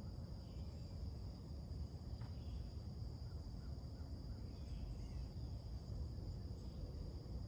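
Summer morning outdoor ambience: a steady, high, unbroken insect chorus, with a few faint, short bird chirps scattered through it, over a low background rumble.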